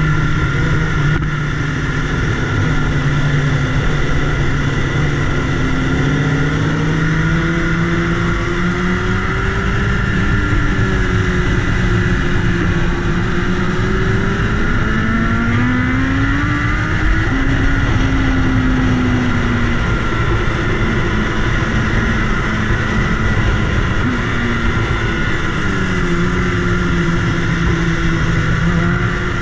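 BMW S1000RR inline-four sportbike engine heard from on board while riding, its note rising and falling several times with the throttle through the bends, the highest about halfway through. Wind rushes over the microphone underneath.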